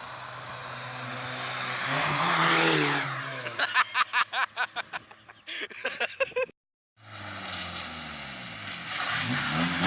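Skoda Felicia engine running through a custom side-exit exhaust with no midsection: the note rises and falls, then gives a quick string of sharp pops, about five a second, that die away. After a brief break the engine revs up again near the end.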